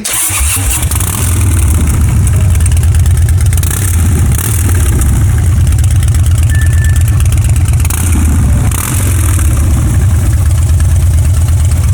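Harley-Davidson Dyna Wide Glide's V-twin engine firing up at the very start and then idling loudly through a Vance & Hines Big Radius 2-into-1 exhaust, with a steady low pulsing beat.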